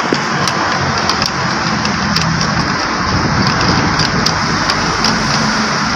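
A vehicle engine running steadily, with small clicks from wires being handled.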